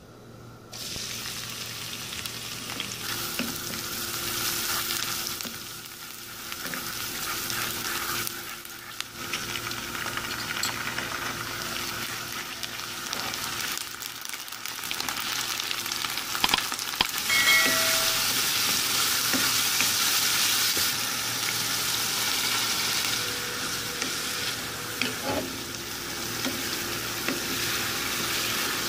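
Chopped onion and garlic, and later a tomato and shrimp mixture, sizzling in hot oil in a wok while a wooden spatula stirs them. The sizzle starts suddenly about a second in, and there are a few sharp clicks about halfway through.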